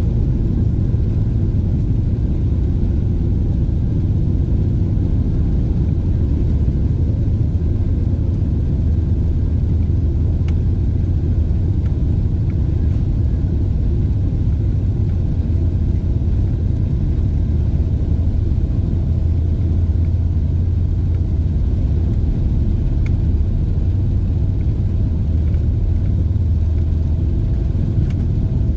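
Steady low rumble of a Boeing 777-300 airliner's engines and airflow, heard inside the cabin, with no change in level.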